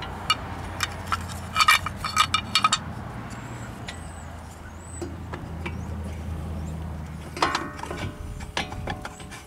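Metal clinks and clanks as a disc brake caliper and its hardware are handled: a quick run of ringing clinks a couple of seconds in and another ringing clank near the end, over a low steady hum.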